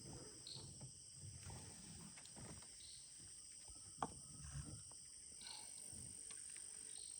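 Faint, steady high-pitched chorus of insects, crickets or similar, with a single sharp click about four seconds in.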